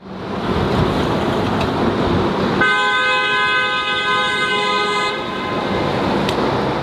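A vehicle horn sounds one steady blast of about two and a half seconds, starting a little over two seconds in, over the wash of street traffic.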